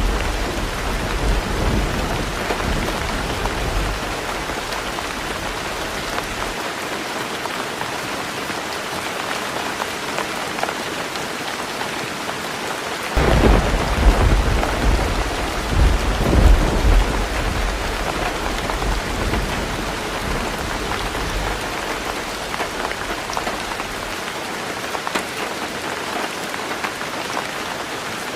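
Heavy rain pattering steadily on a tin roof. Thunder rumbles at the start and fades away, then a fresh peal breaks suddenly about halfway through and rolls on in waves for several seconds before dying down.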